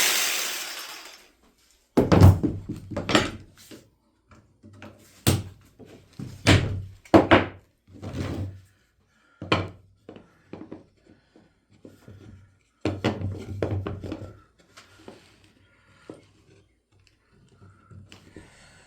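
A power tool winds down over the first second or so. Then come irregular knocks and thuds of wooden pieces being handled and set down on a workbench, some in quick clusters.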